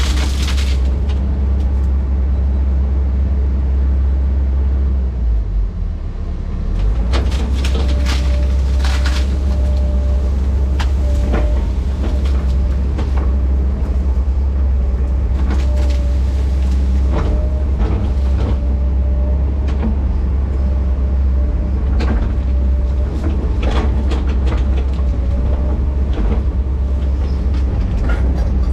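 Diesel engine of a tracked earthmoving machine running under load with a steady low drone. Repeated sharp clanks and cracks come and go over it from about a quarter of the way in, with a faint hydraulic-like whine in the middle stretch.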